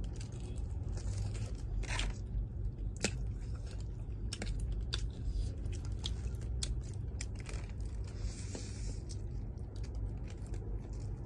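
Close-up eating of spicy instant noodles and chicken: chewing and biting with scattered sharp clicks at irregular intervals.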